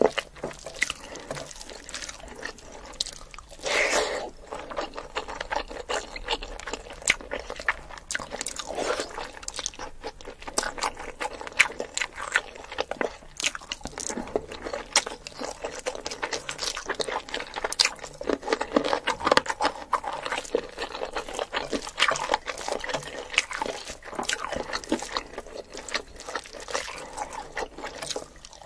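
Close-miked eating sounds: chewing mouthfuls of chicken biryani eaten by hand, with fingers working through the rice. Many small, irregular wet clicks run throughout.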